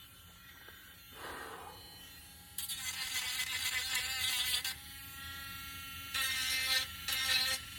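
Small electric sanding tool running against wood in two bursts of about two seconds each, a high buzzing whir, with a brief soft rustle about a second in.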